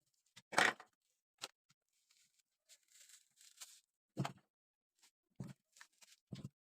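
Workbench handling sounds: five sharp clicks and knocks, the loudest about half a second in, with a short scraping rustle in the middle, as parts and tools of a vintage transistor radio are handled.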